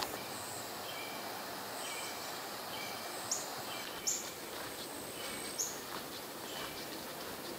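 Birds calling in woodland: a short two-note chirp repeats about once a second, and three sharp, high calls come about three, four and five and a half seconds in, over a steady outdoor hiss.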